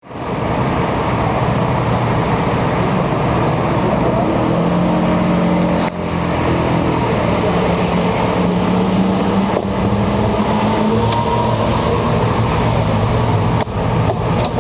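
Vespa PX scooter's single-cylinder two-stroke engine, bored out with a Malossi Sport 187 kit, running through a W1R Torque+ expansion exhaust. Its pitch climbs slowly through the middle, with a brief dip in sound twice.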